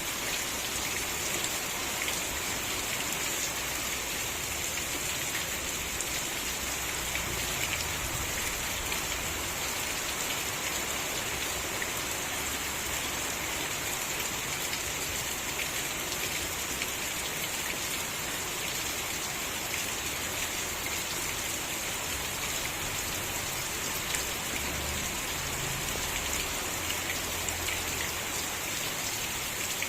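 Steady rain falling: a dense, even hiss with many small individual drops ticking through it.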